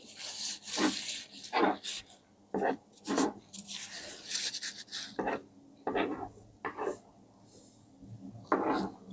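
Close-miked mukbang eating sounds: chewing and wet mouth smacks of people eating stewed pork knuckle and rice, in irregular bursts.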